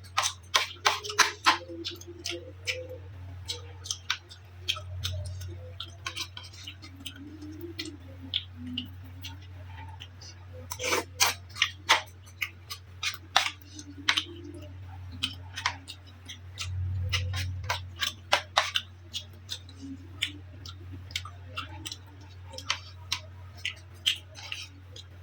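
Close-miked eating mouth sounds: irregular wet smacks and clicks of chewing, several a second, over a steady low hum.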